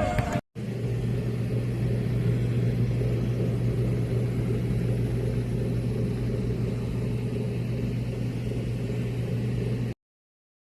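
Steady low mechanical rumble with a constant deep hum, like a running motor or engine; it starts after a brief dropout and cuts off suddenly near the end.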